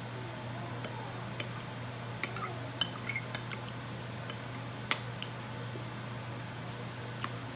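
Spoon clinking and scraping against a dish while eating ice cream: a handful of sharp clinks with a short ring, the loudest about five seconds in, over a steady low hum.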